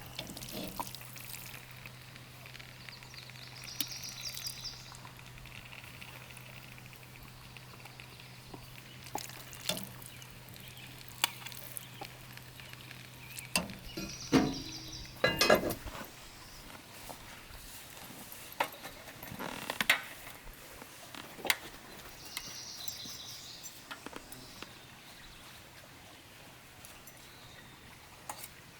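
Scattered light clinks and knocks of things being handled, loudest in a quick cluster about halfway through, over a faint steady low hum that stops at about the same point.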